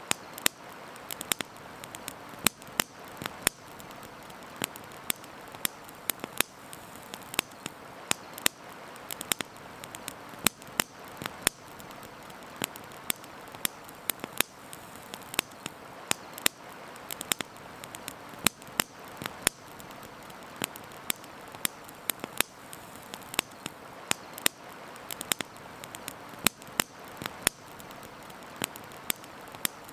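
Wood campfire crackling: frequent sharp irregular pops and snaps over a steady hiss.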